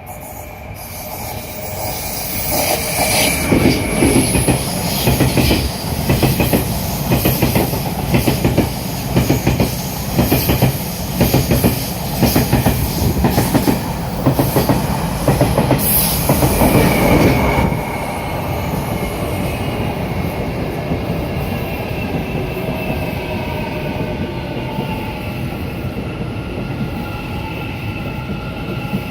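A Tze-Chiang limited express train passes through a station without stopping. Its wheels clack over the rail joints about once a second, growing louder over the first few seconds. The clacking stops abruptly about 18 seconds in, leaving a softer, steady rumble.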